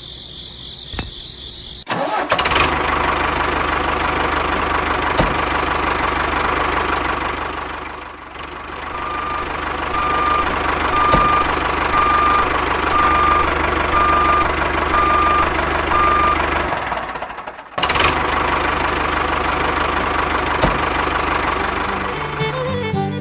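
Tractor engine starting up about two seconds in, then running steadily. Partway through, a string of evenly spaced beeps sounds about once a second for several seconds. The engine cuts out briefly and comes back near the end.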